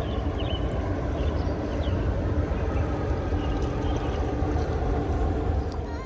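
A motor running with a steady low rumble and a faint steady hum, with a few brief high chirps over it.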